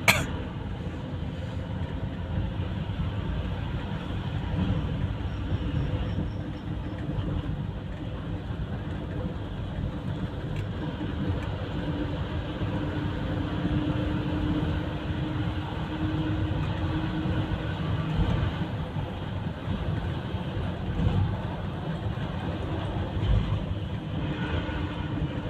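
Steady low rumble of a moving vehicle, with a sharp click at the very start and a faint hum rising out of it in the middle stretch.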